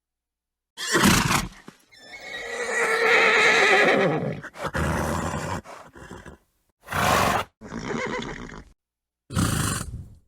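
Horse neighing: one long, quavering whinny, set among several short breathy snorts, with gaps of dead silence between the sounds.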